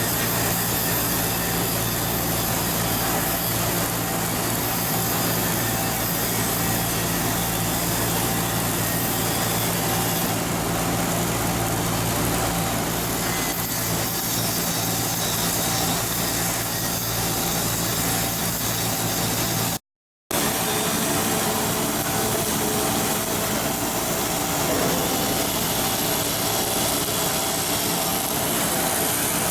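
Steady hum and noise of shipyard machinery at work, with a low, even hum. A cut about two-thirds of the way through switches to a different steady machinery noise.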